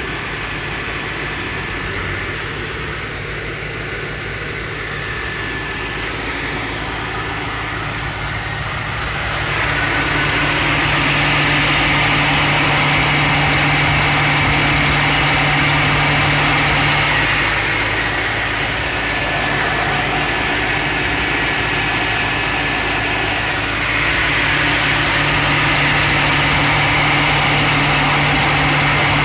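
A 1978 Ford LTD's V8 idles steadily. An electric radiator fan's whooshing rush comes in about ten seconds in, drops away a few seconds before the twenty-second mark, and starts again near the end: the converted electric cooling fan cycling on and off.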